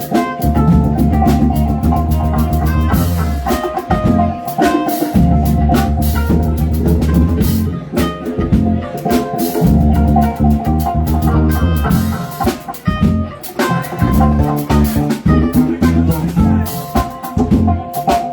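Live rock band playing: drum kit, electric guitar and bass in a steady groove.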